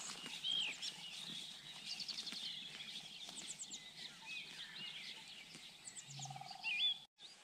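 Several songbirds singing and calling: repeated arching whistled notes and quick high trills, with a short low rattling call about six seconds in. The sound cuts out abruptly shortly before the end.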